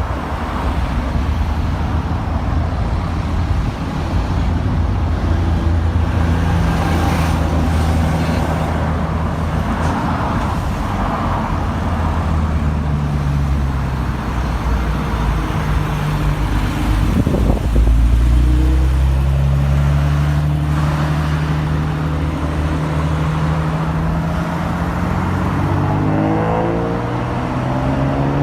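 Honda NSX V6 exhaust note from its muffler, running steadily at cruise. Partway through it swells and then climbs slowly in pitch as the car accelerates, with a quicker rise near the end.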